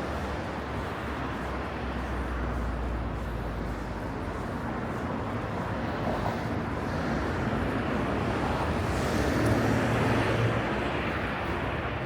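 Road traffic noise from passing cars, swelling louder as a vehicle passes close about nine to ten seconds in.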